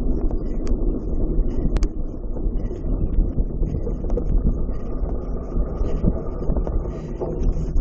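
Wind rumbling on the microphone, with scattered short clicks and rattles over it.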